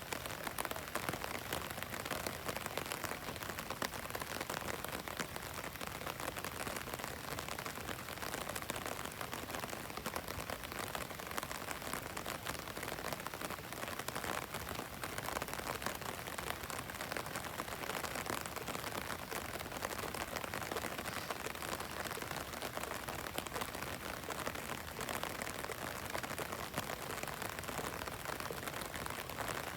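Heavy rain falling steadily, a dense, even patter of countless drops with no let-up.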